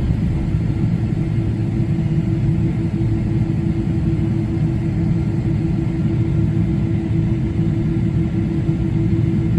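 Pratt & Whitney PW4090 turbofan engines of a Boeing 777-200ER, heard inside the cabin by the wing while the airliner is on the ground before takeoff: a steady low rumble with a steady hum on top.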